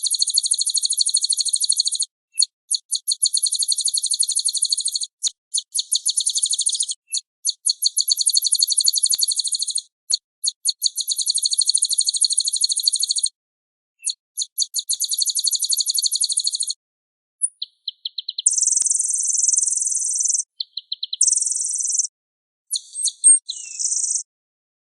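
Recorded small songbird song used as a tutoring (master) track for cage birds: long, fast trills of rapidly repeated high notes, broken by short pauses, giving way after about eighteen seconds to shorter buzzy phrases that stop about a second before the end.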